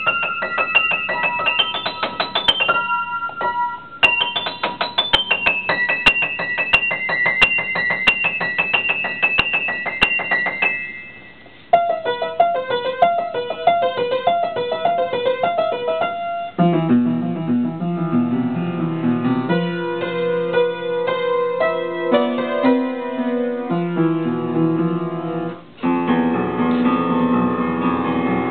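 Solo piano playing: fast repeated high notes for about the first ten seconds, then after a brief pause a shift to a lower register with fuller chords and moving lines, with another short break near the end.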